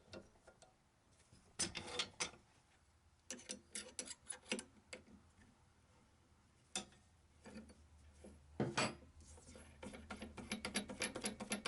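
Scattered light clicks and knocks of small objects being handled, with a quicker, irregular run of ticks after about ten seconds.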